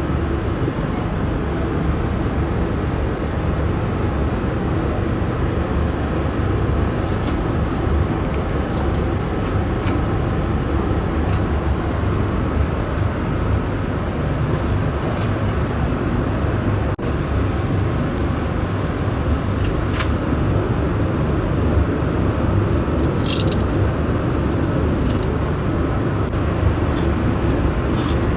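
Steady low rumble of airliner cabin noise from a Boeing 787-8, with a few faint clicks near the end.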